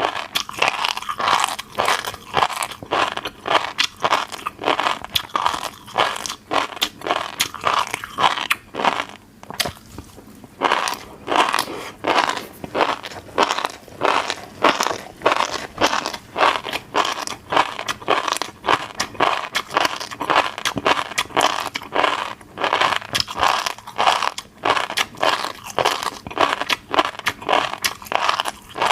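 Close-miked eating of fish roe: rapid crunchy pops as the eggs burst while being chewed, with a short pause about nine seconds in.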